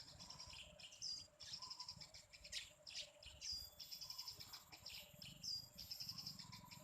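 Faint short bird chirps, three of them spaced a couple of seconds apart, over a steady high insect trill.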